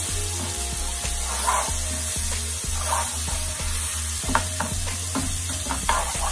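Chopped onion and garlic sautéing in hot olive oil with curry powder in a frying pan, sizzling steadily, while a wooden spatula stirs and scrapes them around the pan with short, uneven scrapes and taps.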